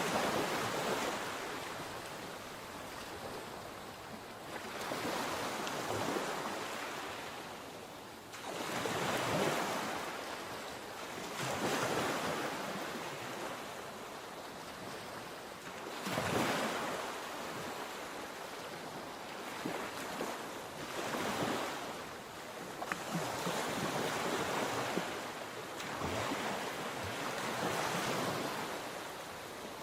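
Sea waves breaking on the shore, a new surge of surf swelling and falling away every three to five seconds.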